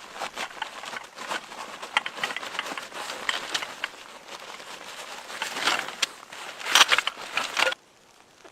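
Irregular crunching and crackling with many sharp clicks, louder near the end, then cutting off abruptly.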